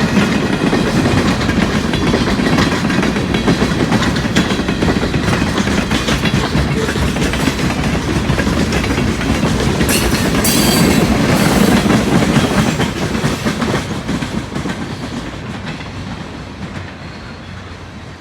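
New York, Susquehanna and Western train's cars rolling past, the wheels clicking and clattering over the rail joints in a dense rumble. There is a burst of sharper clatter about ten seconds in, then the sound fades steadily over the last few seconds as the train moves away.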